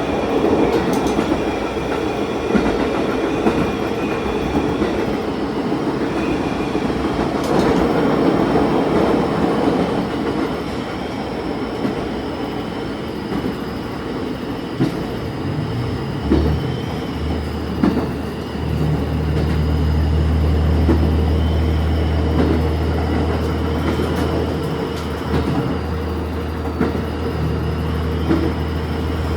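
Diesel railcar running along the line, heard from inside at the front: a steady rumble of wheels on rail with occasional clicks at the rail joints. About halfway through, a deep, steady engine drone comes up and holds.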